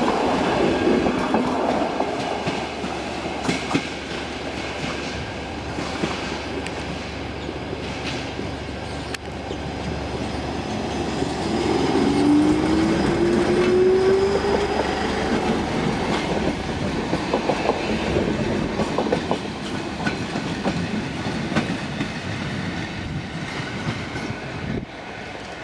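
Blue SL electric commuter trains pulling out and passing close by, wheels clacking over the rail joints. About halfway through, a rising whine comes in as a train gathers speed.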